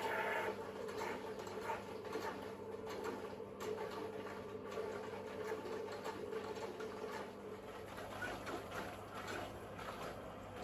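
Privileg Sensation 952 S top-loading washing machine running a wash programme. A motor hum stops about half a second in, and then the turning drum gives irregular light clicking and rustling over a steady low hum.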